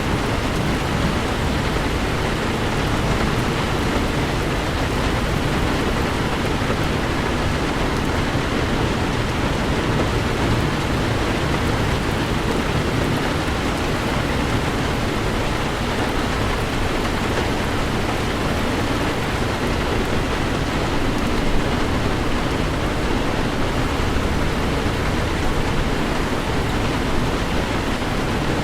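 Heavy rain falling steadily on a moving Toyota 4Runner, an even hiss of rain mixed with low road noise.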